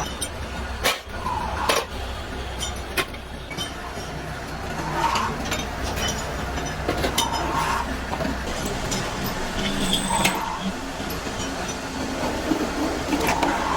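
Workshop machinery running with a steady hum, metal parts clinking and knocking now and then.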